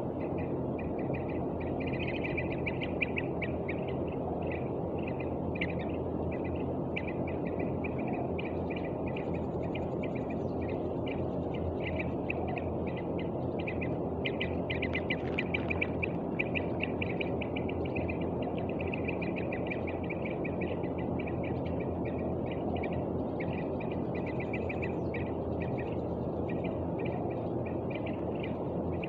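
A young bird calling over and over in quick, high, chattering notes, with barely a pause, over a steady low background noise.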